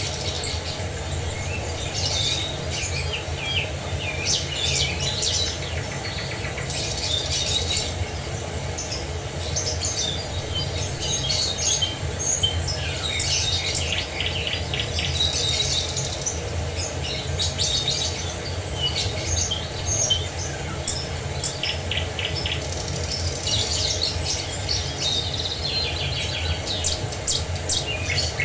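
Several small birds chirping and trilling, over a steady rushing of water.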